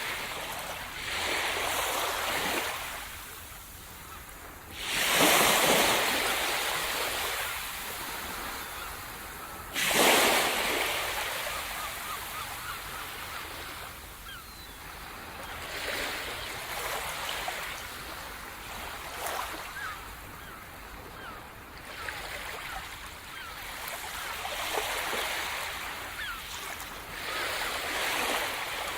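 Sea surf: waves breaking and washing up the shore, with two larger waves crashing in sharply about five and ten seconds in and smaller swells rising and falling after them.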